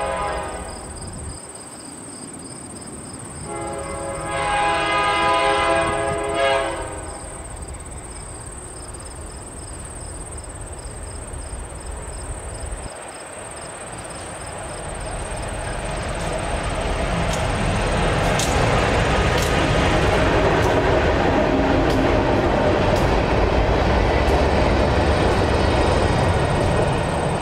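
Diesel locomotive air horn: a chord that ends about a second in, then a second, longer blast. The train then grows louder and runs by, with engine rumble and wheels clicking over rail joints.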